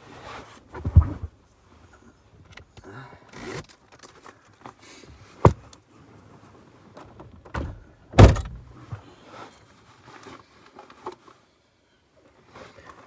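Several sharp knocks and thumps with rustling in between, the sound of someone shifting about and handling things inside a car. The loudest knocks come about a second in, midway through and about two thirds of the way through.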